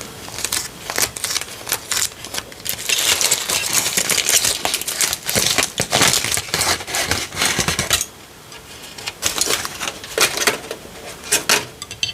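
Dishes and utensils clinking and clattering while food is handled. Sharp clicks come throughout, with a dense stretch of clatter in the middle and scattered clicks near the end.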